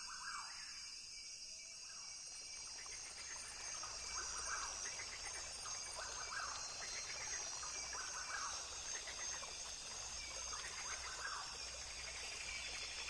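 Rainforest ambience: a steady, high-pitched insect chorus, with an animal calling in short chirping phrases every couple of seconds over it.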